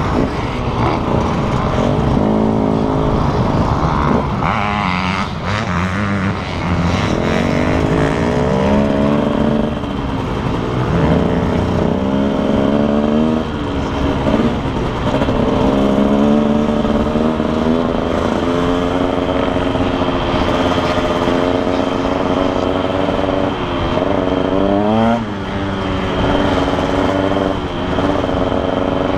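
Motocross bike engines revving hard, their pitch repeatedly climbing and dropping as they accelerate and shift, with more than one bike heard at once.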